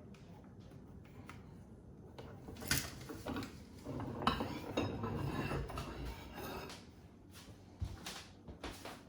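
Clinking and clattering of small hard metal items being handled, with scattered clicks and a busier patch of rattling in the middle.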